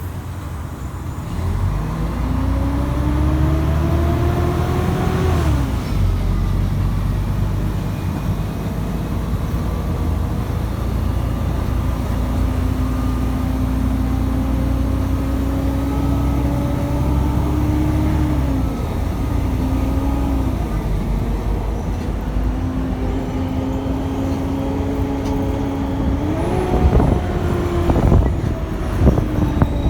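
Mercedes-Benz O500UA BRT bus's diesel drivetrain under way: a whine rises as it accelerates over the first few seconds and drops off about five seconds in, then it runs steadily for long stretches. It rises again near the end, with a few knocks and rattles.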